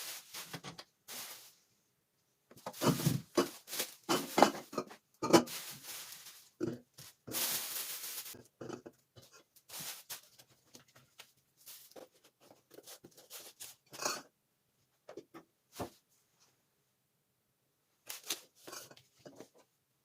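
Household items being handled and put away: scattered clicks, knocks and rustling with quiet gaps between, and a longer rustle, like paper or plastic, about seven seconds in.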